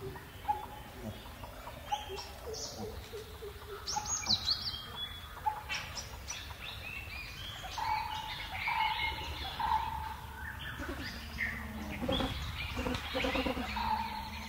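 Birds chirping and calling with many short, quick notes, over a low steady background rumble.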